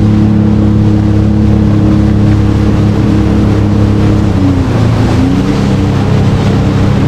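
Jet ski engine running at steady speed, its pitch dipping briefly about four seconds in and then climbing back.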